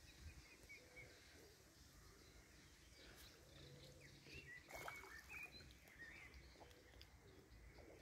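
Near silence: quiet outdoor ambience with a few faint, short, high bird chirps, and a brief soft knock about five seconds in.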